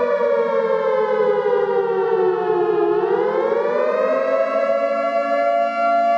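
Civil-defence-type flood warning siren sounding a continuous wail: its pitch slides down over about three seconds, then climbs back up and holds steady.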